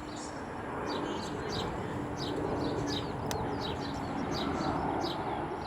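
Small birds chirping, short high notes about three a second, over a steady broad rumble from an airliner on approach that grows slightly louder about a second in.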